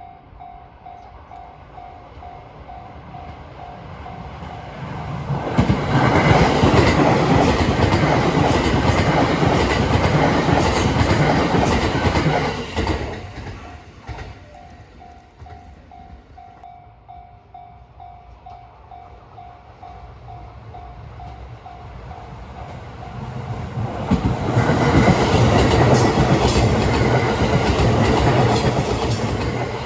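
Japanese level-crossing warning bell ringing about twice a second while trains twice clatter over the rail joints at the crossing, each pass a loud rush of wheel clatter lasting several seconds and drowning out the bell.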